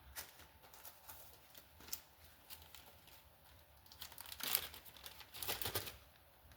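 Light clicks and rustling from parts and tools being handled while a valve is removed from a motorcycle cylinder head, with two louder scraping, rustling bursts about four and a half and five and a half seconds in.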